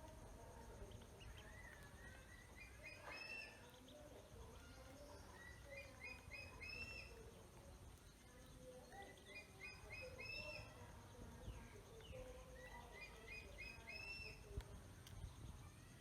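Birds chirping: a short phrase of four or five quick rising chirps repeats about every three to four seconds, with softer, lower wavering calls in between, over faint background noise.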